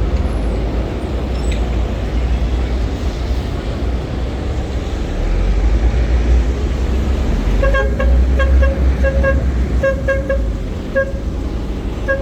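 Street traffic rumbling steadily, with a car horn honking in a rapid string of about a dozen short beeps starting about eight seconds in.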